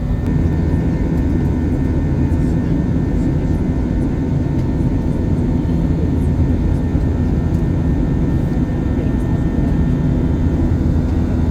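Jet airliner's engines heard from inside the passenger cabin: a steady low drone with faint hum tones, unchanging throughout.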